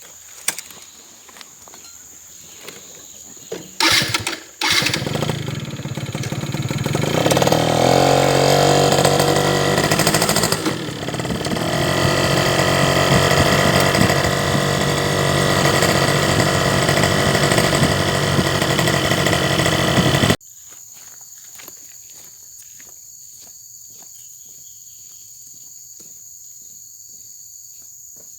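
A small engine starts after a couple of loud knocks about four seconds in, revs up and runs steadily, then stops abruptly about two-thirds of the way through. A steady high insect chirring runs underneath throughout.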